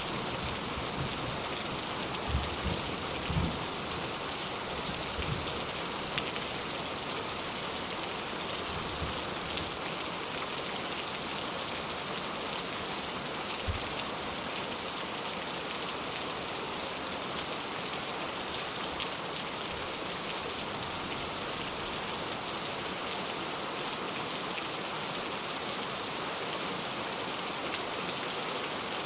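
Steady rain falling, an even hiss full of fine drop patter. A few low thumps come in the first few seconds.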